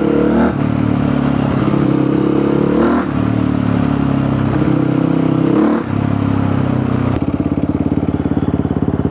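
Supermoto motorcycle engine through an FMF aftermarket exhaust, running under way with short rises and falls in revs about every three seconds. About seven seconds in it settles into a steady idle with an even pulsing beat, staying running without stalling, which the rider credits to fixing a small hole in the fuel pump.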